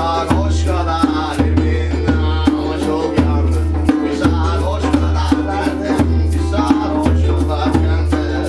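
A band playing an improvised piece: drums and percussion keep an even beat over a continuous bass, with a winding melody above.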